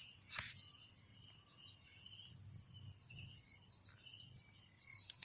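Faint, steady high-pitched drone of insects, with scattered short chirps and one sharp click about half a second in.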